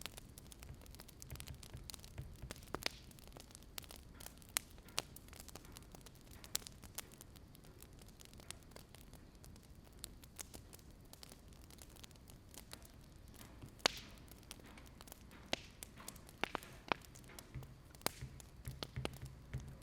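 Wood fire crackling: irregular sharp pops and snaps over a faint steady low rumble.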